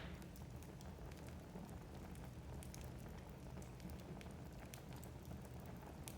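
Wood fire burning in a fireplace, with a low steady rush and scattered small crackles and pops of the burning logs.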